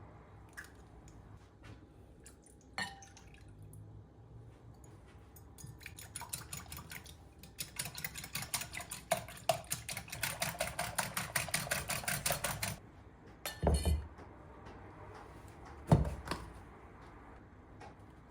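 Kitchen utensil beating rapidly against a bowl, about six or seven strokes a second for some five seconds, with a ringing clink in the strokes. Then two heavy knocks, the second the loudest.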